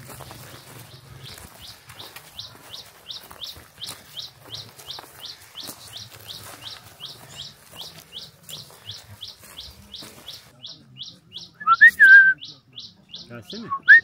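A bird repeating a short high chirp, about three or four times a second, over footsteps and rustling for the first ten seconds or so. Near the end a single loud whistle rises and then falls away.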